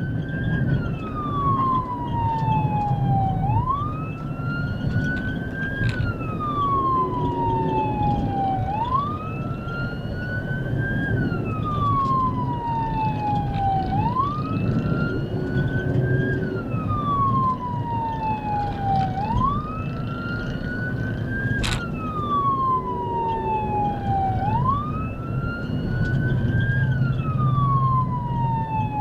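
Police car siren in a slow wail, each cycle a quick rise followed by a longer fall, repeating about every five seconds, over the car's engine and road noise at pursuit speed. A single sharp click comes about three quarters of the way through.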